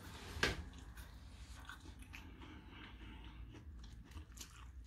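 A person chewing french fries, with soft, faint mouth clicks and one louder sharp click about half a second in.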